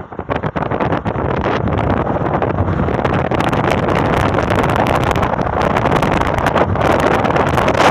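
Wind buffeting the microphone over a steady low rumble of a moving vehicle, with crackling gusts throughout.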